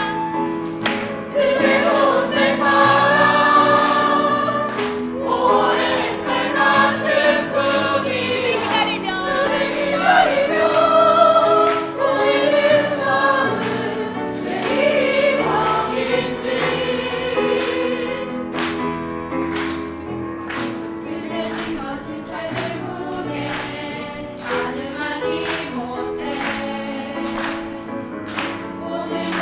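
Choir singing a song over instrumental accompaniment with a steady beat.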